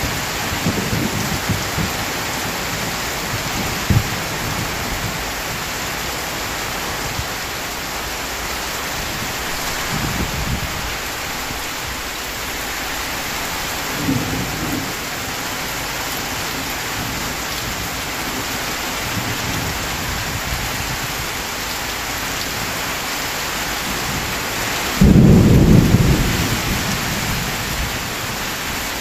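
Heavy rain falling steadily, with low rumbles of thunder now and then and a loud thunderclap rolling out about three-quarters of the way through.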